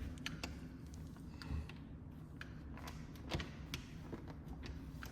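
Footsteps on hard flooring: irregular light taps and knocks over a low steady rumble.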